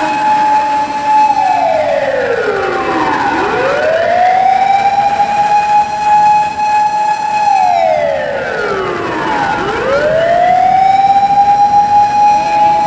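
Japanese fire engine siren wailing: a long held high tone that falls steeply, then rises back up and holds again. This happens twice.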